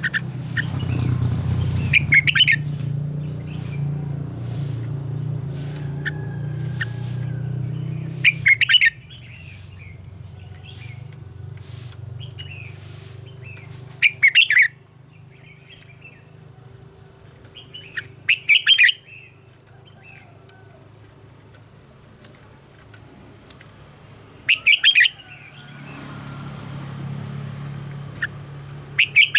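Red-whiskered bulbul singing short, loud phrases, six in all, roughly every five seconds.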